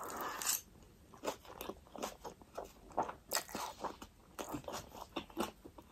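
Close-up eating of spicy ramen noodles: a short slurp, then chewing with many small, irregular clicks and crunches.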